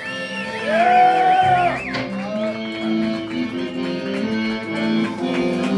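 Live band music led by electric guitar: high notes bending and wavering for about two seconds, then a steady pattern of held and repeated notes.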